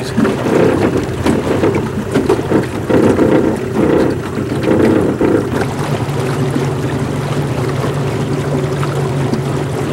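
Motorboat engine running at a steady speed, a low even drone, with uneven rushing noise of wind and water over it for the first half that then settles.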